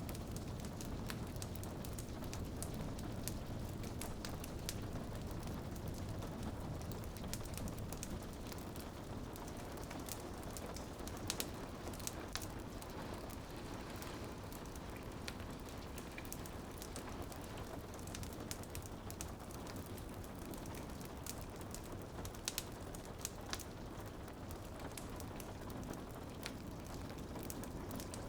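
Wood fire crackling in a fireplace, with many small clicks and a few louder pops, over a steady patter of rain on a window.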